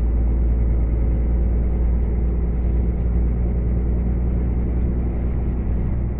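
Heavy truck's engine drone and road noise heard from inside the cab while driving: a steady low rumble. Right at the end the drone changes and gets a little quieter.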